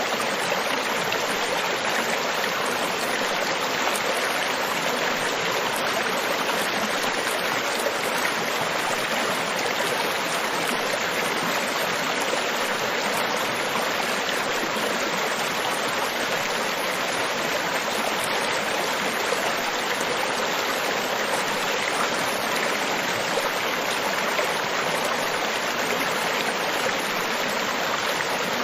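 Steady, even rushing of water with no separate wave surges or breaks, part of a tropical beach ambience.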